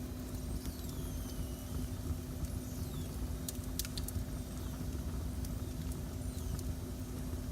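Wood fire burning in a fireplace: a steady low rumble with a hum, a few sharp crackling pops about halfway through, and faint high whistles that slide downward in pitch.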